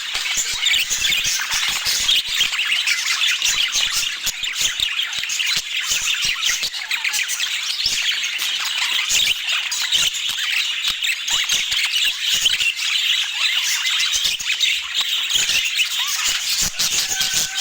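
Budgerigars chattering continuously: a dense, unbroken stream of short scratchy warbles, chirps and clicks.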